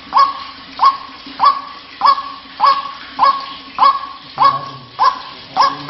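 White-breasted waterhen (ruak-ruak) calling: a steady series of short, sharply rising notes, about ten of them, roughly one every 0.6 seconds.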